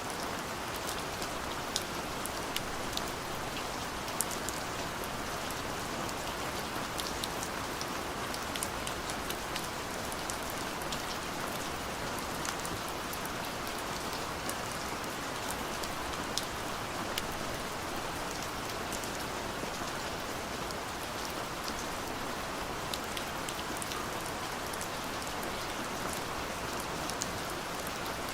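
Steady rain, with many individual drops ticking sharply on a surface over an even hiss.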